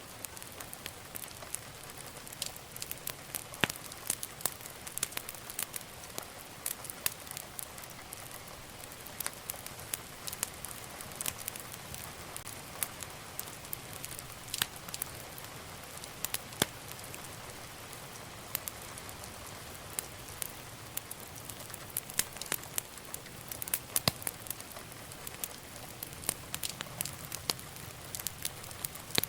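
Wood fire burning in a fireplace: a steady soft hiss with many irregular sharp crackles and pops throughout.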